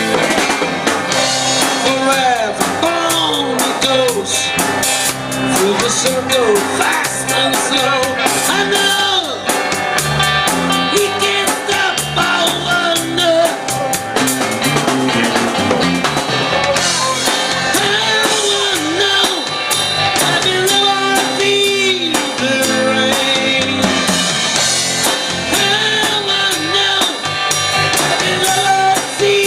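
Rock band playing: guitar, bass guitar and drum kit, with a sung vocal line over a steady beat.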